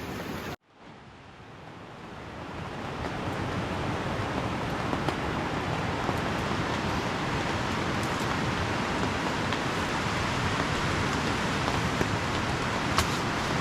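Heavy rain falling steadily as an even hiss, with a few faint ticks. It cuts out briefly about half a second in and fades back up over the next two seconds.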